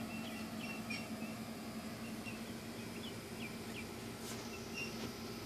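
Small bird chirping in a string of short, high notes, some of them quick upward chirps, over a steady low hum.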